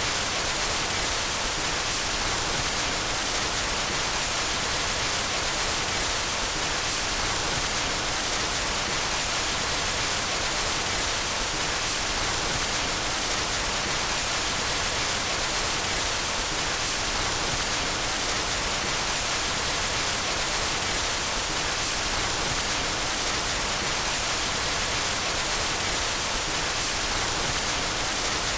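Steady white noise: an unchanging, even hiss, strongest in the treble.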